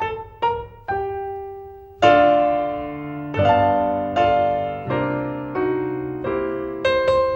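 Piano music: a few single descending notes, then a loud chord about two seconds in, followed by a series of held chords, with quicker notes returning near the end.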